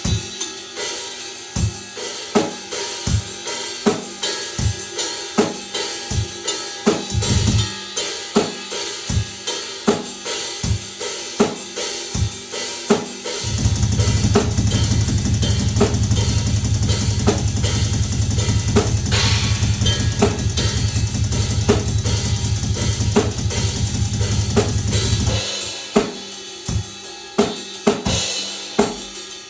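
Drum kit being played: a steady beat of sharp drum and cymbal strikes, broken from about 13 to 25 seconds in by a long, fast, continuous run of low drum strokes, before the steady beat returns.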